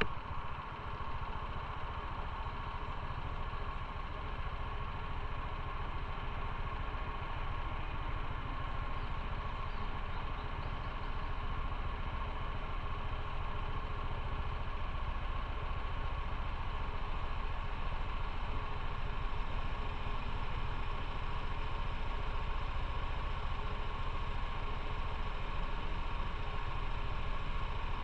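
Motorcycle engine idling steadily, at an even pitch throughout.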